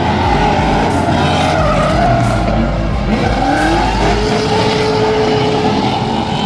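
Car engine revving hard, its pitch rising and falling, with tyres squealing as the car drifts.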